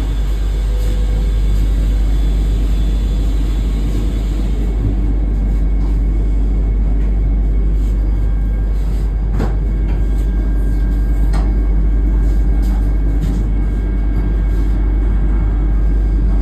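Train running with a steady low rumble, with a couple of faint clicks about nine and eleven seconds in.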